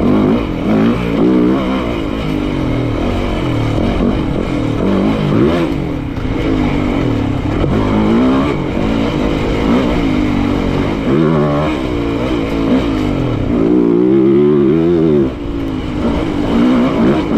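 Enduro dirt bike engine revving hard, its pitch climbing and dropping again and again as the throttle is worked.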